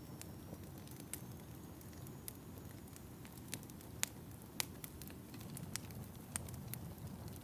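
Fire crackling in a fireplace: a steady low rumble of burning with scattered sharp pops and snaps, the loudest about four seconds in.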